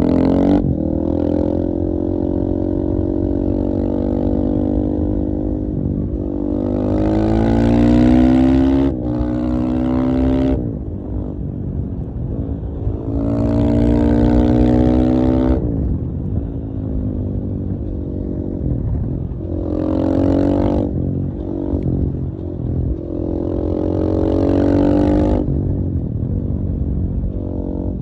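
KTM 450 EXC-F enduro motorcycle's single-cylinder four-stroke engine being ridden: it pulls up in pitch under throttle four times, with a sudden break partway through the first pull, and drops back to a lower running note between pulls.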